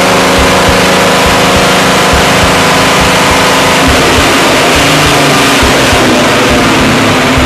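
Chevrolet Camaro Z28's LT1 5.7-litre V8 running loud under load on a chassis dyno, its tyres driving the rollers. The note holds steady for about four seconds, then changes and starts to climb as the engine revs up.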